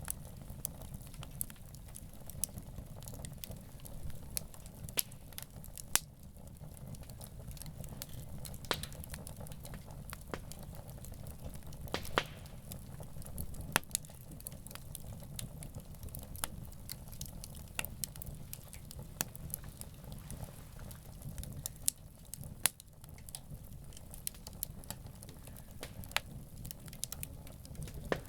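Wood campfire burning, crackling with irregular sharp pops, a few louder than the rest, over a low steady rumble.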